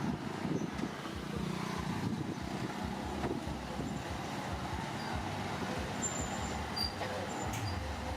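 Heavy diesel engine of a construction machine running steadily, a low rumble with some scattered clatter.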